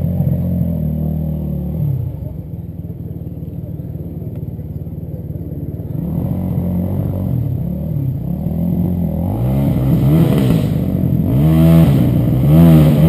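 Enduro motorcycle engine running, then revving hard from about two-thirds of the way in, its pitch sweeping up and down several times and getting louder toward the end.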